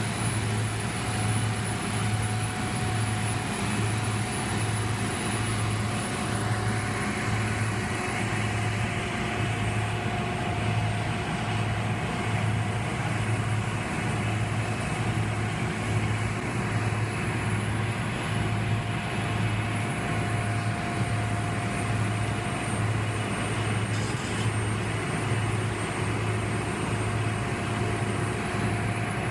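Heavy equipment engine running steadily, a low droning hum that pulses about one and a half times a second, with a faint steady whine over it.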